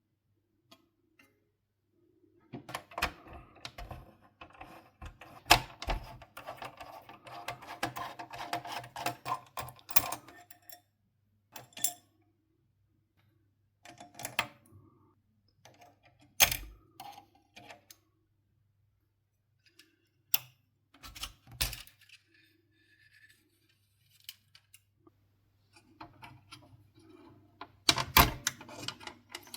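Irregular clicks, taps and rattles of small plastic and metal parts being handled while a PlayStation 4 console is taken apart. A dense stretch of clatter comes in the first third, then scattered knocks, one sharper a little past halfway, and another flurry near the end.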